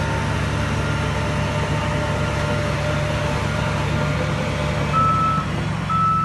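Heavy diesel earth-moving machine engine running steadily, with a backup alarm giving two high beeps about a second apart near the end.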